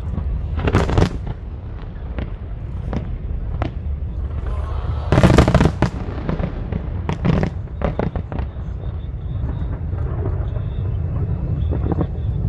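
Aerial fireworks bursting: a string of sharp bangs and crackles, the loudest about a second in and again around five to six seconds in, over a steady low rumble.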